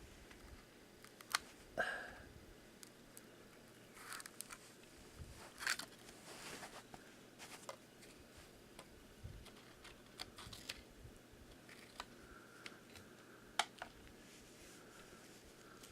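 Faint handling noise: scattered light clicks and short rustles from small objects being picked up and moved by hand.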